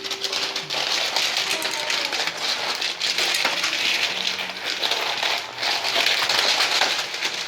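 Pine-pellet bedding crunching and rattling continuously under puppies scrambling and playing in it, a dense crackle of many small clicks.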